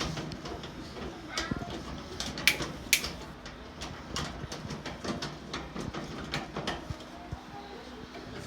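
Scattered clicks and knocks of metal and plastic parts being handled inside a clothes dryer during reassembly after a belt change, the sharpest two about two and a half and three seconds in.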